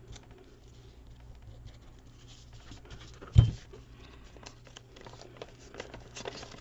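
Light rustling and small clicks of paper being handled and pressed down while gluing, with one sharp thump about three and a half seconds in.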